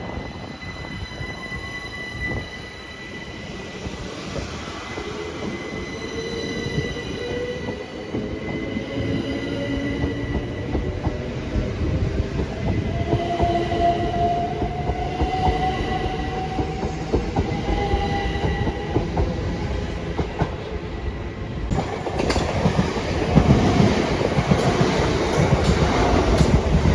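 Train running through on the rails, with a thin steady squeal and a slowly rising whine over the rumble. About 22 seconds in the sound turns suddenly louder and noisier.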